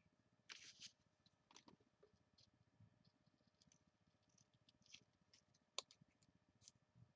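Near silence with scattered faint clicks and a brief rustle of paper and craft supplies being handled on a work table, with one sharper click about six seconds in.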